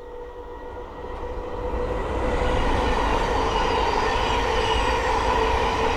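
Thameslink Class 700 electric multiple unit approaching and passing on the main line. It builds up over the first two seconds or so, then runs past steadily with a steady whine.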